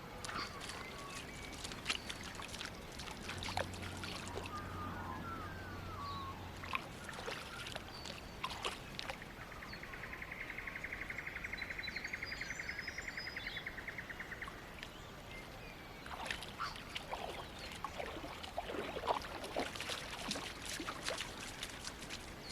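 Riverside ambience: scattered sharp clicks and light water sounds, with a rapid pulsing buzz that swells and fades over about five seconds near the middle, and a few brief high chirps.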